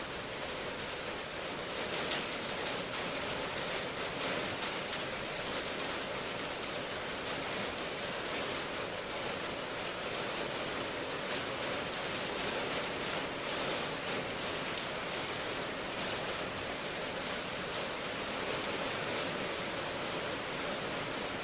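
Steady rain: an even hiss of falling rain with a fine, continuous patter of drops.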